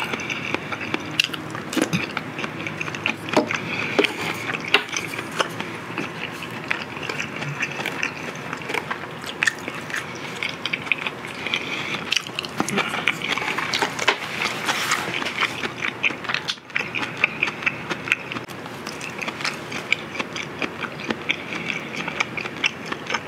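Eating sounds: a person chewing grilled pork ribs and pickled radish, with many small wet clicks and smacks of the mouth.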